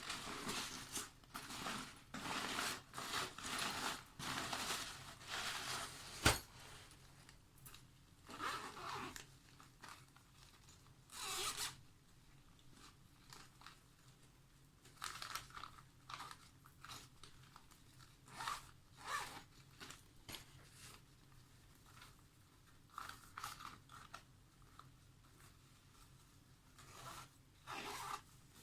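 Zippers on bags and travel cases being pulled open and shut in short strokes, with fabric rustling as the bags are handled. One sharp click comes about six seconds in.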